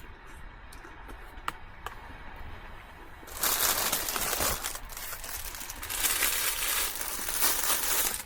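Plastic snack bag crinkling loudly in two long spells, starting about three seconds in, after a few faint clicks.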